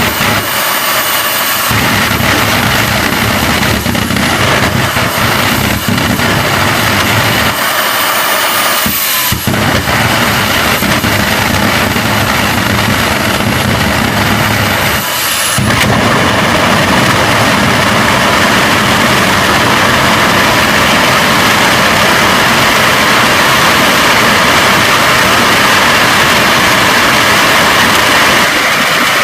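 Homemade jet engine running loudly on a test: a dense rush of noise over a low pulsing note, with a high thin whine that rises and falls. It drops back briefly a few times, then runs steadier and a little louder for the last half.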